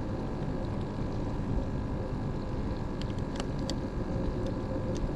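A steady low motor hum, with a few light clicks about three seconds in and again near the end.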